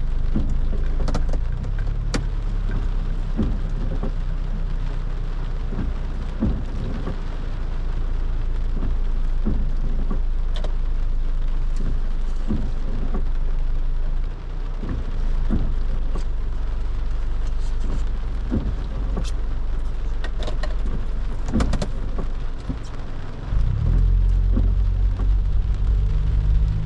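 Rain pattering on a car, with scattered individual drops striking sharply over a low engine hum. About 23 seconds in, the engine gets louder and its note rises as the car accelerates.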